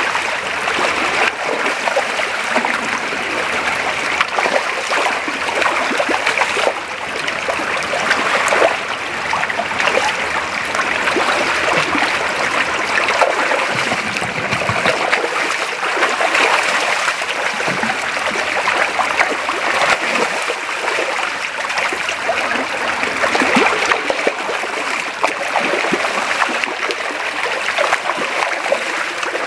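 Creek water running over rocks: a steady rush with small trickling and splashing sounds.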